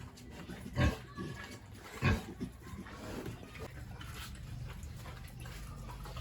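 Pigs in a pen making sounds, with two short loud calls about one and two seconds in, over a low steady hum that sets in partway through.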